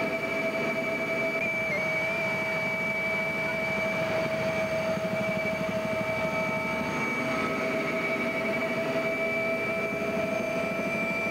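Helicopter in flight: a steady mechanical whine of several held tones over a constant rushing engine and rotor noise.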